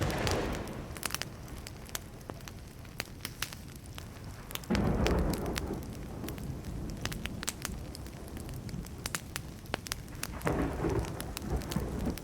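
Wood fire crackling with frequent sharp pops, while thunder rumbles three times: at the start, about five seconds in, and near the end, each roll starting suddenly and fading away.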